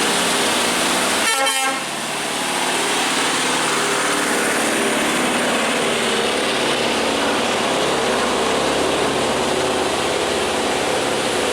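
Scania heavy truck running loud and steady as it passes on the road, with a vehicle horn sounding.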